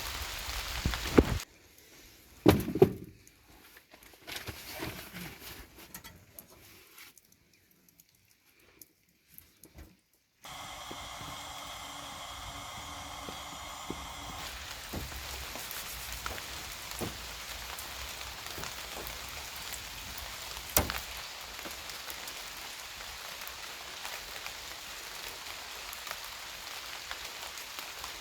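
Steady rain pattering down, setting in about ten seconds in after a stretch of near quiet. Before it come a couple of sharp knocks.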